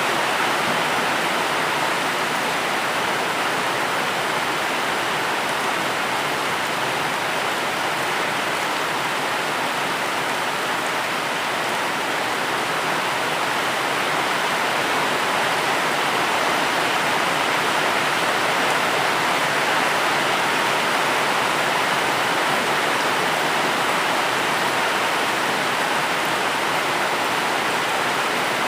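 Steady rain falling, an even hiss with no single drops or gusts standing out.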